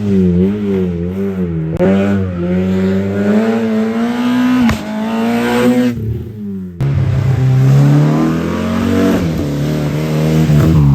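Race car engines revving hard under acceleration and lifting off through the slalom, the pitch rising and falling with each throttle change. The sound breaks off abruptly twice, about two seconds in and again near the middle, and carries on with a different engine note.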